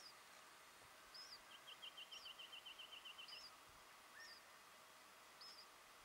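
Faint birdsong: a short high chirp repeats about once a second, and a rapid trill of about fifteen even notes runs from about a second and a half in to about three and a half seconds.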